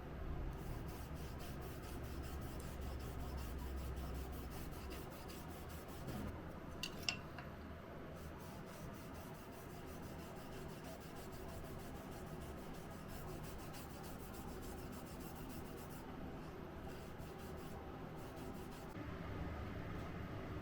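Rapid, repeated rubbing strokes of hand abrasive work, like filing or sanding, with one sharp click about seven seconds in.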